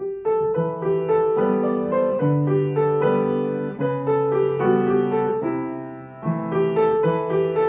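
Gentle piano music: a slow melody over held notes, starting suddenly and fading briefly about six seconds in before the next phrase.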